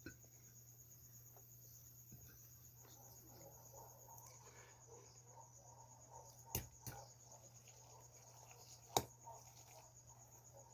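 Crickets chirping steadily and faintly in the background over a low hum, with a few sharp clicks, two close together past the middle and a louder one about nine seconds in.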